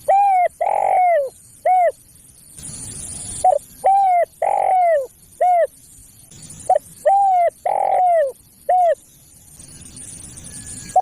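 Spotted dove cooing: a phrase of four arched, falling coo notes (a short one, two longer drawn notes, a short one) repeated three times, about every three and a half seconds. A faint hiss fills the gaps between phrases.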